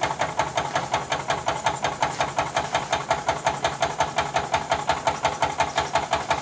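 Small Jean Comby live-steam model engine, gas-fired, running steadily at an even pace of about five chuffs a second, with a hiss of escaping steam from a couple of steam leaks.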